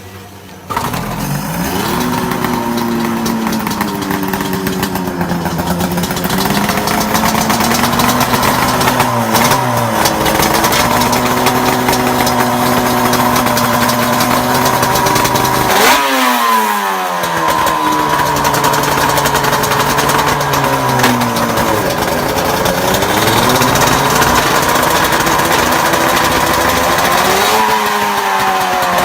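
Big two-stroke motorcycle engine running, coming in just under a second in after a brief gap. Its pitch rises and falls with the throttle. About halfway through it revs sharply and drops straight back, and it climbs again near the end.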